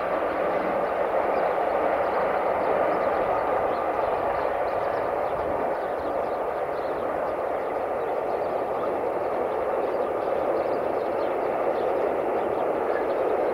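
Steady, even rumble of a train running.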